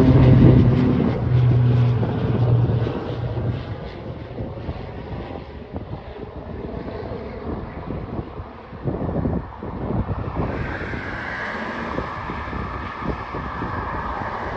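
Propeller airplane on takeoff, its steady pitched engine and propeller hum fading away over the first three seconds. Gusty wind on the microphone follows.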